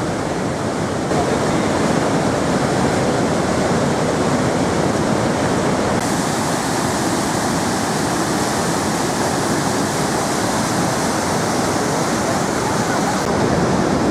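Gullfoss, a large two-step glacial waterfall, giving a steady, loud rush of falling water.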